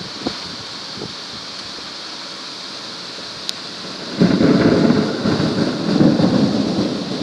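Steady rain hiss with a few sharp drips, then about four seconds in a thunder rumble starts suddenly, rolls on, swells again and fades near the end.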